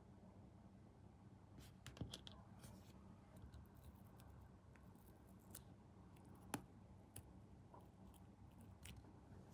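Faint, scattered small clicks and taps from hand tools and small plastic model parts being handled on a workbench, with two sharper clicks about two seconds in and past the middle.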